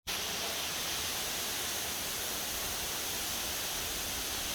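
Waterfall pouring steadily: a constant rushing hiss of falling water.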